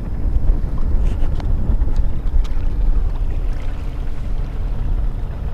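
Wind buffeting the microphone: a loud, dense low rumble with a few faint clicks.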